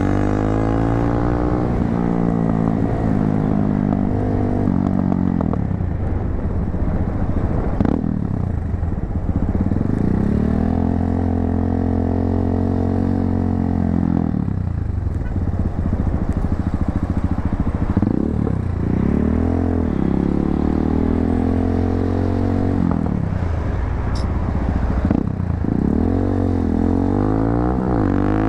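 250cc motorcycle engine with an aftermarket muffler, its exhaust note climbing in pitch as it accelerates through the gears and falling as it slows, several times over.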